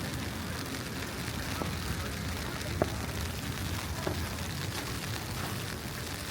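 City street ambience on a snowy night: a steady low rumble, with a few faint clicks and one sharper click a little before the middle.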